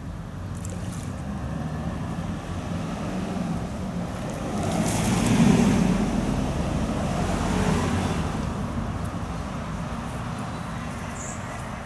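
Wind buffeting the microphone outdoors as a steady low rumble, swelling louder about five seconds in and easing off again a few seconds later.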